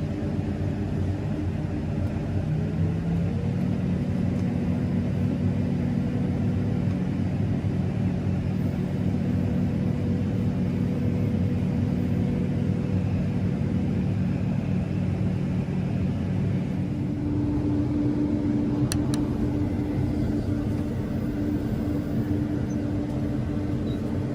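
Combine harvester running steadily, a machine hum with several steady tones. Its pitch steps up about three seconds in, a further steady hum joins about two-thirds of the way through, and two sharp clicks come soon after.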